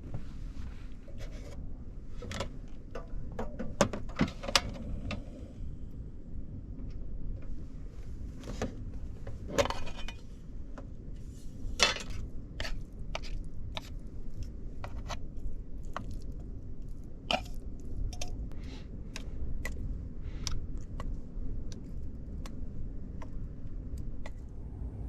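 Clinks, clicks and light scrapes of small hard objects being handled, a dozen or more separate knocks. Under them is a steady low rumble of strong wind.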